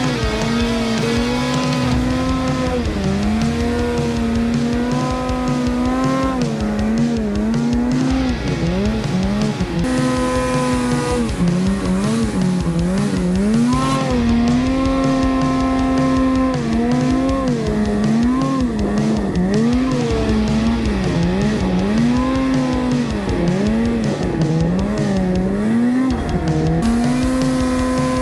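Snowmobile engine running hard, its revs rising and falling again and again as the throttle is worked while riding.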